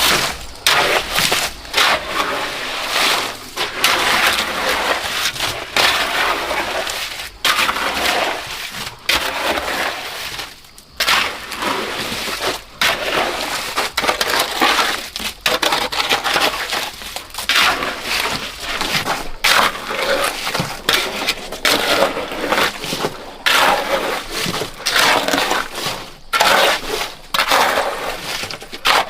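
Shovel scraping and crunching through a gritty concrete mix in repeated strokes, about one every second or two.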